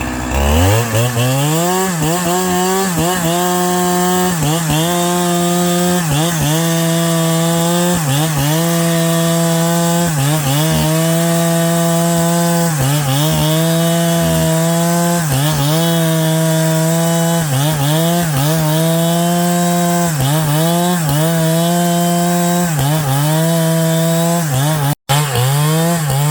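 Chainsaw revving up and running at high speed. Its pitch sags briefly and recovers over and over, about once a second, as it bites into wood, with a short break near the end.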